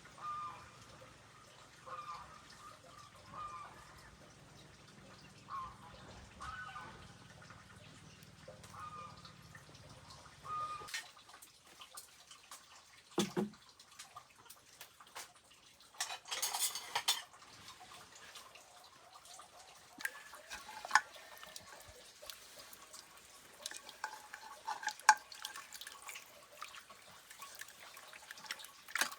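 Kitchen work: dishes and utensils clinking, with water splashing and dripping and a short burst of running water about sixteen seconds in.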